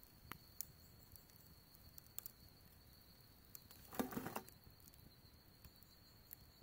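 Faint wood fire crackling: scattered sharp pops, with a louder cluster of crackles about four seconds in.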